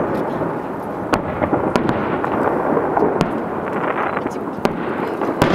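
Aerial fireworks bursting in quick succession, a continuous rumble of booms with a sharp crack about every second.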